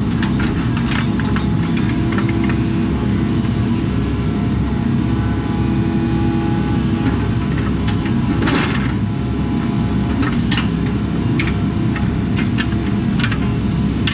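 Diesel engine of a compact earthmoving machine running steadily under work, with scattered sharp knocks and clicks from the machine and the fill, and one longer scraping swell about eight and a half seconds in.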